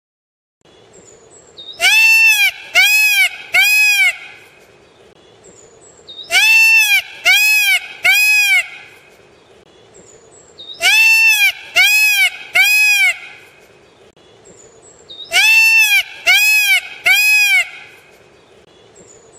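Indian peafowl (peacock) calling: four bouts of three loud calls, each call rising then falling in pitch, the bouts about four and a half seconds apart. A faint steady background noise fills the gaps.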